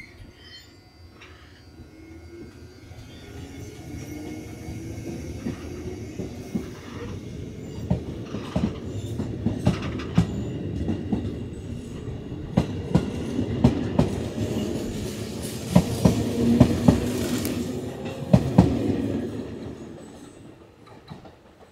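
Electric commuter train on the JR Nara Line passing the station, growing louder over several seconds. Its wheels clack sharply over the rail joints, then the sound fades away near the end.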